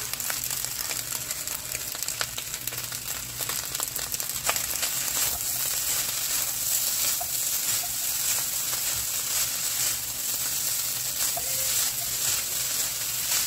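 Fried rice sizzling in a hot nonstick wok while a plastic spatula stirs and tosses it, with frequent light scrapes and ticks against the pan over a steady hiss.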